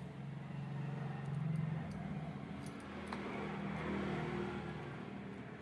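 A motor vehicle engine running with a steady low hum that swells briefly about a second in, with a few light clicks.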